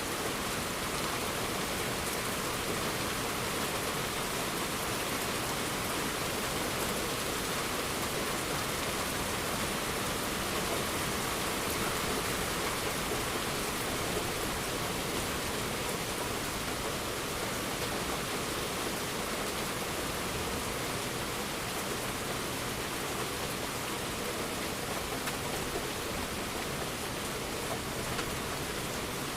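Steady, even rain falling, a dense hiss without a break or swell; no thunder within this stretch.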